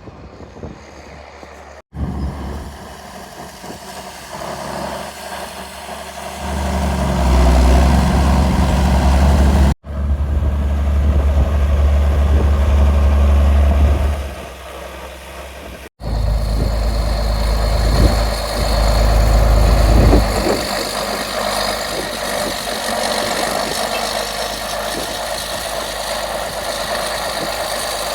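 Engine running, heard across several edits. A heavy low rumble fills the middle stretch and drops away about twenty seconds in, leaving steady running with a faint high whine.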